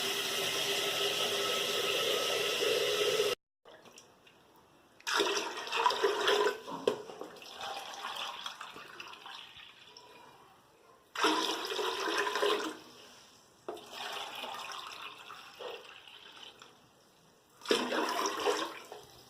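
Water being poured from a measuring cup into a pressure cooker: one steady pour that stops abruptly, then three shorter pours a few seconds apart.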